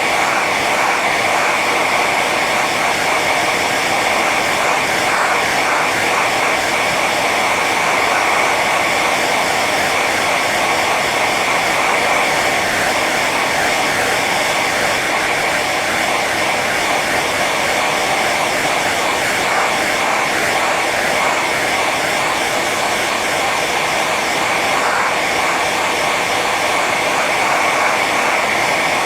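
Hair dryer running steadily on its high setting: an even rush of blown air over the motor's whine, with a strong band high in the pitch range.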